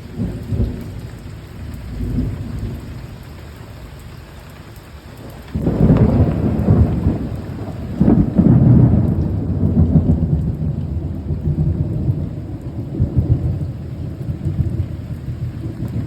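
Heavy rain falling steadily, with thunder: a loud crack of thunder breaks in about five and a half seconds in, surges again at about eight seconds, and rumbles on low and rolling.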